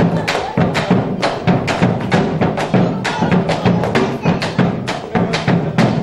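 Argentine folk music with a fast, steady run of sharp percussive strikes over a low pitched accompaniment.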